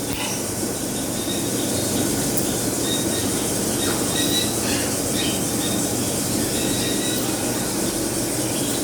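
Many caged parrots and small birds calling at once in a bird shop, a steady din with a few faint short squawks and chirps.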